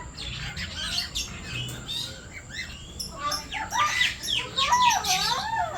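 A mix of aviary birds chirping and calling, with many short chirps overlapping. From about halfway in, louder warbling calls swoop up and down in pitch.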